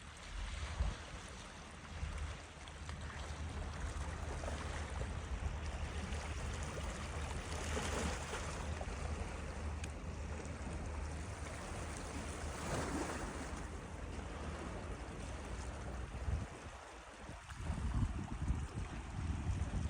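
Steady outdoor rush of wind and moving water with a low rumble underneath, swelling a few times.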